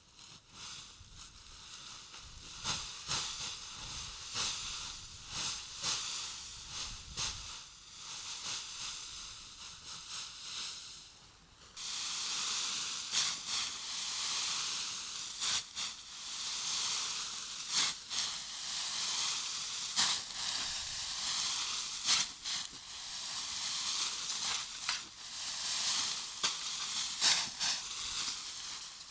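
Food sizzling in hot oil in a pan, a steady hiss with scattered pops and spits, getting louder about twelve seconds in.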